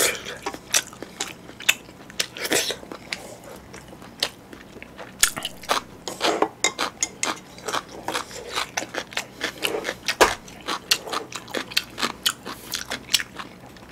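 Close-miked mouth sounds of a man eating chewy spicy jjolmyeon noodles: wet chewing and smacking in quick, irregular clicks, with some louder bites.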